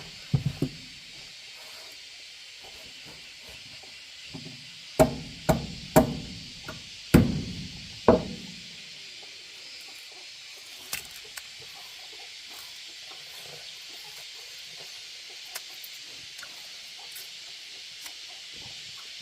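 Sharp knocks, like blows struck on wood: two near the start, then five about half a second to a second apart between about five and eight seconds in, each with a short ring. A steady high hiss lies underneath throughout.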